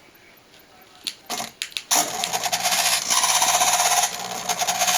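A few clicks, then a metal-geared servo buzzing as it drives the model's all-moving tailplane, starting about two seconds in and dipping briefly a second or so later before running on.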